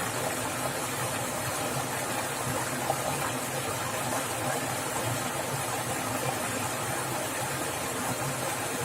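Fast-flowing water splashing and rushing in a steady, unbroken stream.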